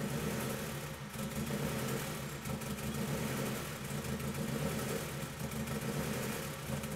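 Turbocharged 2000 Honda Civic EX's stock four-cylinder engine idling steadily while running pig rich, its air-fuel ratio pinned around 7.4 despite fuel being taken out of the map.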